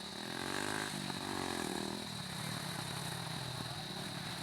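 A small vehicle engine revs up and back down over the first two seconds, then settles to a steady idle.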